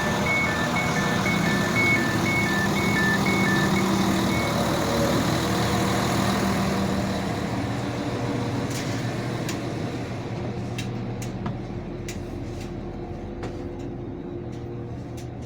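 Train's door-closing warning: short beeps alternating between two high tones for about four seconds, over the steady low hum of the train's engines. The hum eases off, and a scattering of sharp clicks follows in the second half.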